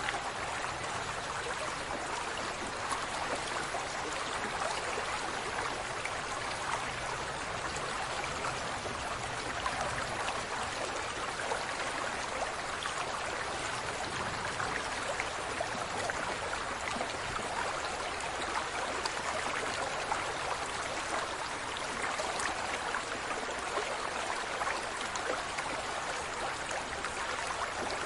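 Steady running water, an even rushing with fine splashy ticks throughout.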